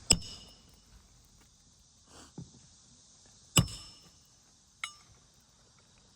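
Hammer striking a steel roof snake tool to drive roofing nails under a laminate shingle: two loud metallic strikes with a brief ring, about three and a half seconds apart, and a lighter tap near the end.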